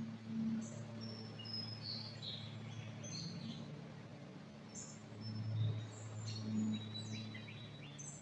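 Several small songbirds chirping and whistling, short high notes and brief trills scattered throughout. Under them runs a low steady hum that swells briefly at the start and again a little past halfway.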